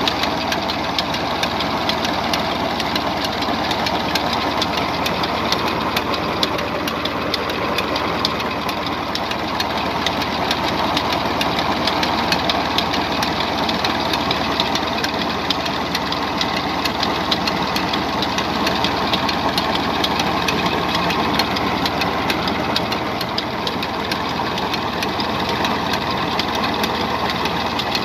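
Massey Ferguson 135 tractor engine running steadily under heavy load while driving a tubewell pump, with a fast, even clatter and no change in speed.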